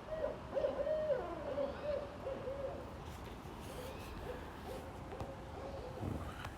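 Barred owl calling: a rhythmic series of hoots with a drawn-out downward slur, the "who cooks for you" call. The hoots are louder over the first few seconds, then go on more faintly.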